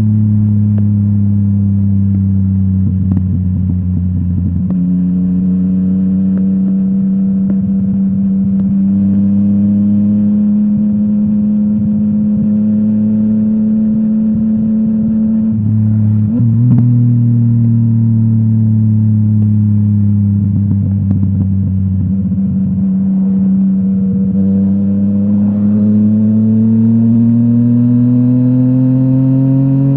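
Yamaha MT-09 three-cylinder engine through a full Akrapovic exhaust, running under way at a steady cruise. The pitch sags slowly and climbs again as the throttle changes, with a brief jump about halfway through.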